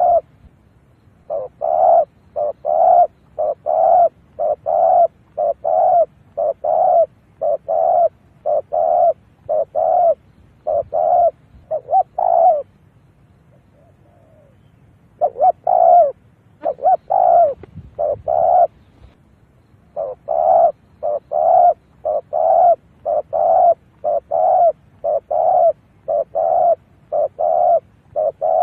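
Spotted dove cooing: short low coo notes repeated about twice a second in long runs, broken by a pause of a couple of seconds just after the middle. This is a decoy bird's call, used to lure wild doves to a trap.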